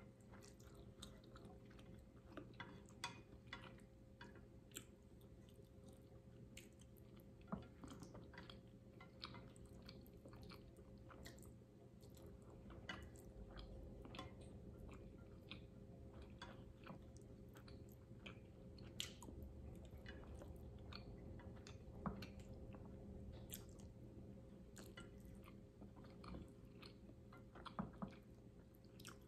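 Faint close-up chewing of soft, saucy instant noodles, with scattered small clicks of wooden chopsticks against the dish throughout, over a steady faint hum.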